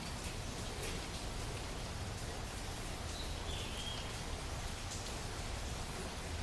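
Steady rain falling, with a couple of faint short high chirps about three seconds in.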